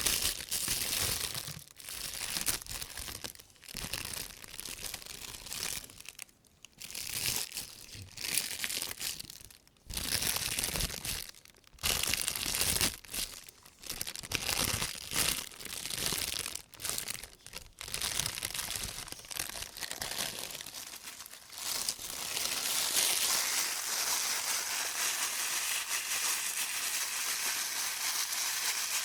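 Thin white plastic shopping bag rustling and crinkling as rubber-gloved hands handle it, in irregular bursts with short pauses, turning into continuous rustling about two-thirds of the way through.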